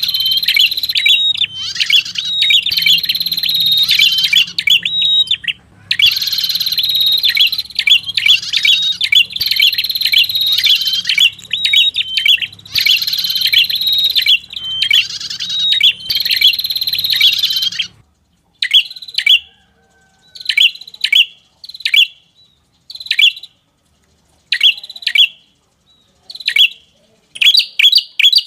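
Recorded lure call of a prenjak (prinia), fast runs of sharp, high chirps repeated in long phrases. About two-thirds of the way in, the recording changes to shorter chirp phrases with gaps between them.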